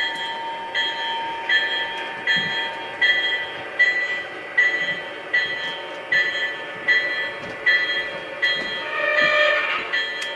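Model diesel locomotive's sound decoder ringing its bell steadily, about four strikes every three seconds, over a low engine rumble as the train pulls out, with a short horn blast near the end.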